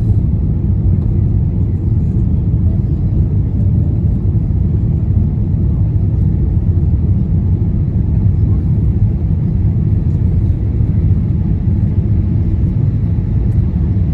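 Steady low rumble of a Boeing 787-8's jet engines and the rushing air, heard inside the cabin during the climb after takeoff.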